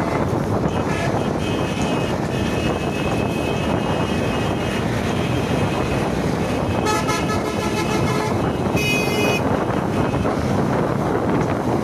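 Road traffic running steadily, with vehicle horns honking over it: a long honk through the first few seconds, then two shorter honks about seven and nine seconds in.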